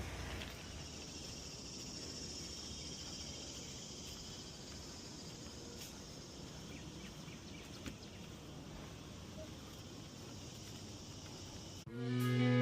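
Steady, faint chorus of insects, a high-pitched continuous trill. Guitar music cuts in abruptly near the end.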